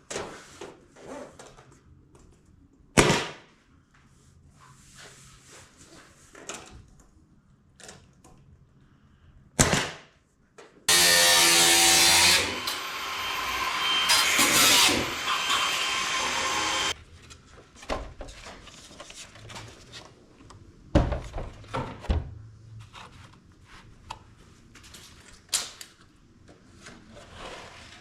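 Staple gun firing staples into camper door panels: single sharp snaps spaced several seconds apart, with handling noise between. In the middle, a loud steady mechanical noise runs for about six seconds and cuts off suddenly.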